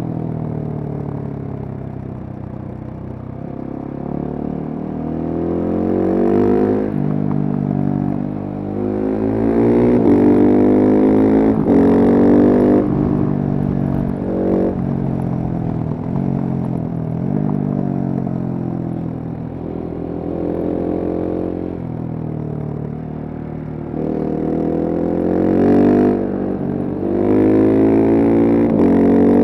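Single-cylinder Husqvarna supermoto engine under way, accelerating and changing gear again and again. Its pitch climbs through each gear and drops sharply at each upshift, with short easings off the throttle in between.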